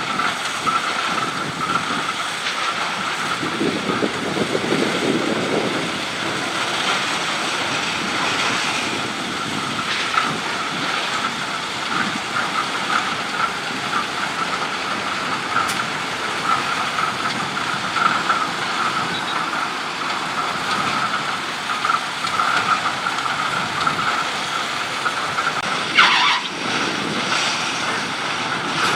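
A working truck running steadily: a rough, noisy rumble with a constant whine over it, and one sharp knock near the end.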